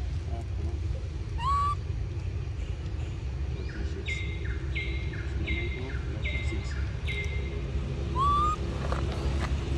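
Forest birds calling: a run of five short, level notes about two-thirds of a second apart, and two short rising calls several seconds apart, over a steady low rumble.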